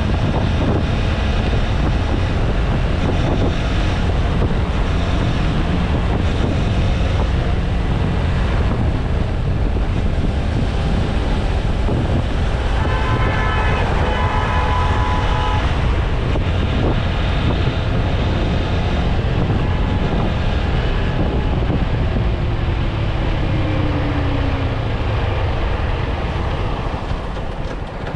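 Wind buffeting the microphone over the steady running of a TVS Apache RTR 160 4V's single-cylinder engine at cruising speed on the highway. About halfway through, a pitched, horn-like tone sounds for a few seconds, and later a faint tone falls in pitch.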